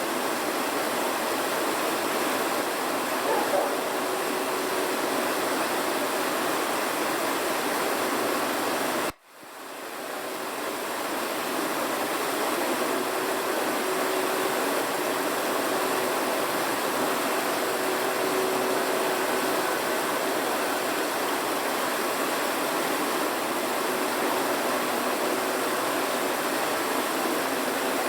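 Steady rushing noise, like wind or running water. It cuts out suddenly about nine seconds in and swells back over a second or two.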